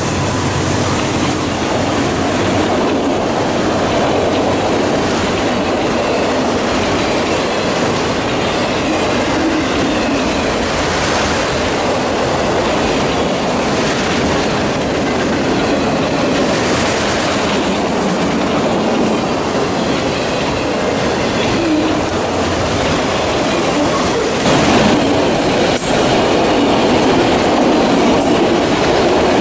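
Freight train cars rolling past at close range: a steady rumble and clatter of wheels on rail, with some wheel squeal. It grows a little louder about 25 seconds in.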